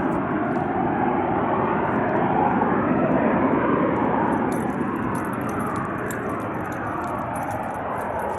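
A loud, continuous rumbling drone whose pitch slowly wavers. It eases off a little in the second half, when faint high ticking also comes in. Its source is unexplained; it resembles aircraft noise.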